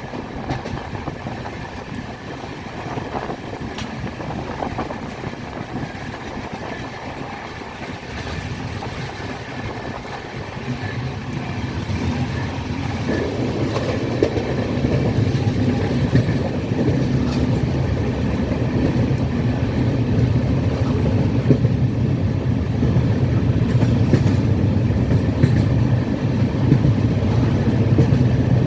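Passenger train running on the rails with a steady rumble and some clickety-clack, growing louder from about ten seconds in.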